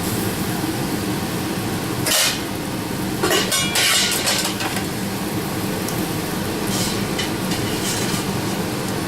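A metal utensil clattering against a frying pan, once about two seconds in and several times between about three and five seconds in, over a steady hum and hiss from the stovetop cooking.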